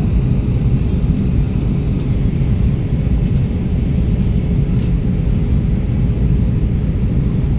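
Airbus A320-214 cabin noise during the approach descent: a steady, loud rumble of airflow and the CFM56-5B engines, with a steady droning hum over it.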